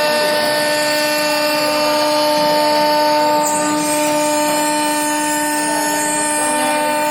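Spindle of a BW2040 stone CNC router running with a steady, unchanging whine.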